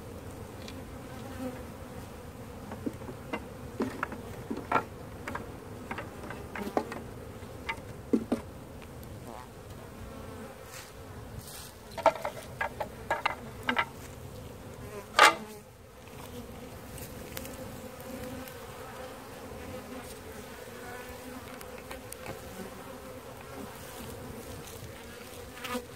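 Honey bees buzzing steadily in a dense mass around a hive being removed. Scattered short knocks and clicks sound over the buzz, the loudest about halfway through.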